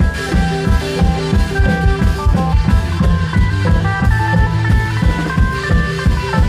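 Klong yao long-drum band playing upbeat Isan dance music: a steady, driving drum beat under a repeating bass line and a higher melody.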